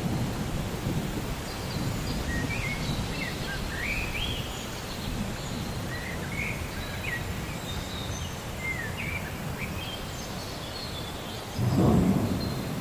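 Rain falling steadily with low rolling thunder, and a bird chirping faintly through the middle. Near the end a louder rumble of thunder swells up.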